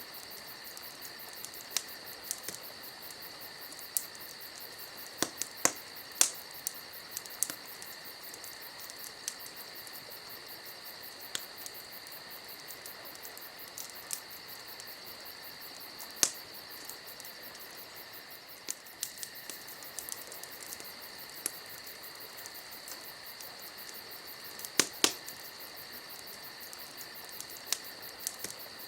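Campfire crackling: irregular sharp pops and snaps of burning wood, a few louder ones in pairs, over a steady high chirring of crickets.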